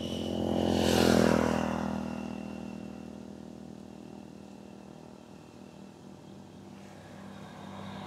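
Motorbike passing by on the road, its engine loudest about a second in and then fading away. Another vehicle is approaching near the end.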